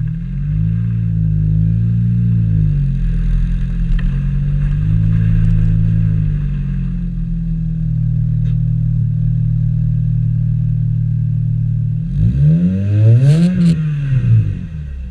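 Chevrolet Cobalt SS exhaust running at a steady idle, with two gentle rev blips in the first seven seconds. About twelve seconds in it is revved harder, the pitch rising to a peak and falling back.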